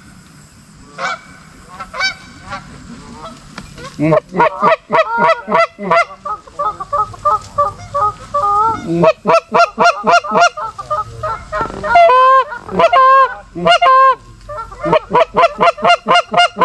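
Goose honking: a few single honks, then from about four seconds in a loud, fast run of short honks and clucks, with several longer drawn-out honks between about twelve and fourteen seconds.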